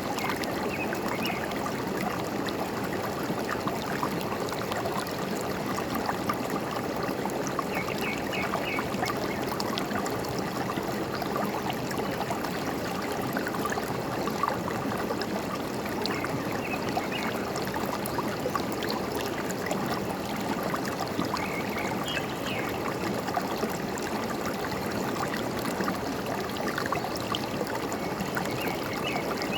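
Forest stream running steadily over stones, with a constant gurgling rush of water. A bird gives short clusters of high chirps every six or seven seconds.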